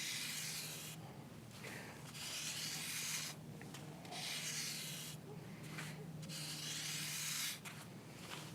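Scraping strokes in sand as words are written out, in separate passes of about a second each with short pauses between.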